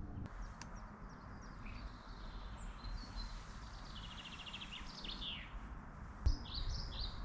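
Wild birds calling: scattered high chirps, a rapid trill around the middle, and a run of short repeated falling notes near the end, over a steady low background hiss. A single short knock about six seconds in.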